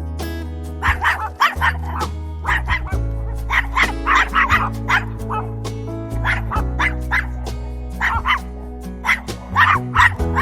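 A small dog yapping in quick runs of short, high barks over background music with a steady bass line.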